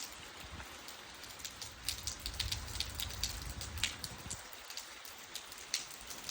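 Steady light rain with individual raindrops ticking sharply on a hard surface.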